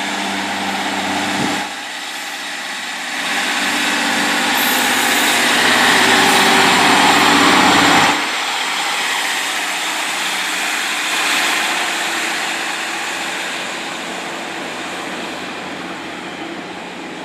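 Class 153 diesel multiple unit's underfloor Cummins diesel engine pulling away from the platform. The engine note builds up to about eight seconds in, drops suddenly, then fades as the unit moves off.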